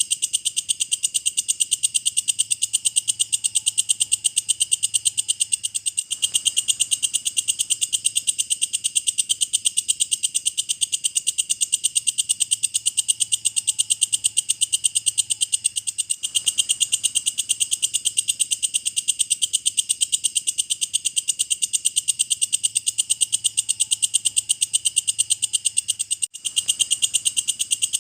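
Walang kecek (belalang kecek) insect calling: a continuous, shrill, fast-pulsing chirr, with a brief break near the end.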